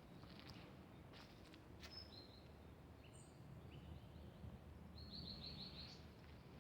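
Faint outdoor ambience with small birds calling: scattered short high chirps, and a quick trill of about five notes about five seconds in. A few faint clicks or rustles.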